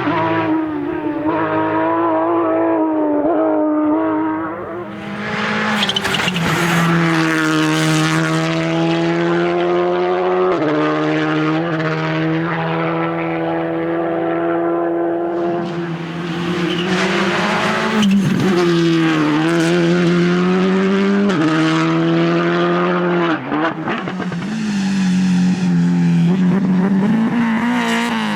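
Rally car engine at full throttle on a stage, its pitch climbing through each gear and dropping at each upshift, with short lifts and throttle blips for corners.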